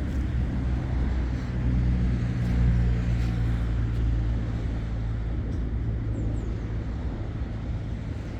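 A low, steady engine rumble under wind noise, easing off somewhat about halfway through.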